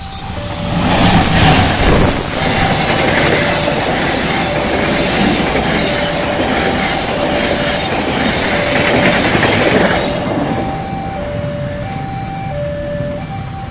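A passenger train hauled by a CC201 diesel-electric locomotive passes close by a level crossing. Its noise swells about a second in and drops away after about ten seconds. Throughout, the crossing's electronic warning alarm sounds, alternating between two tones.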